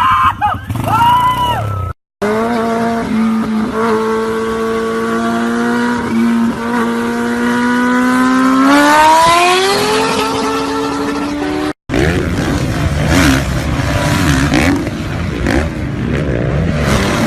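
Vehicle engine sounds from cut-together clips. For several seconds an engine runs at a steady pitch, then revs up sharply about eight seconds in. After an abrupt cut comes a rougher, noisier stretch of engine sound.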